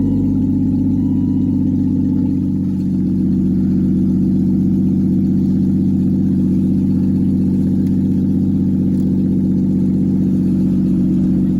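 Volvo S80 engine idling steadily just after a cold start.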